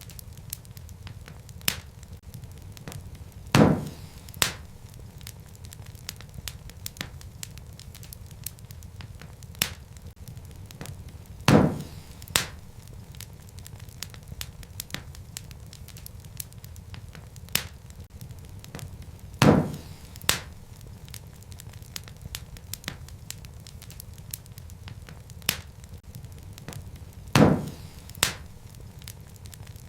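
Wood fire burning in a fireplace: a steady low rumble of flames with scattered small crackles, and a loud pop from the burning logs about every eight seconds, each followed by a smaller pop.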